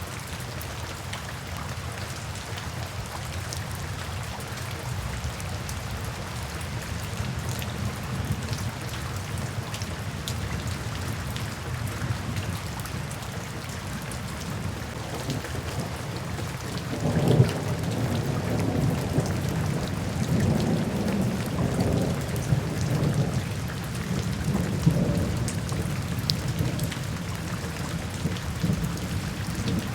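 Steady rain falling, with a long roll of thunder that swells in a little past halfway and rumbles for several seconds before easing off.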